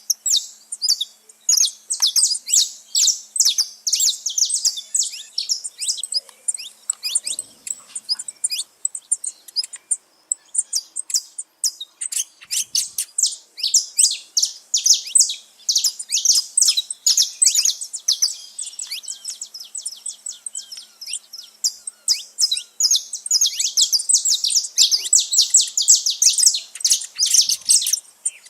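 Many saffron finches (canário-da-terra) singing and chirping at once, a dense, continuous mix of quick high chirps and short trills from several birds overlapping.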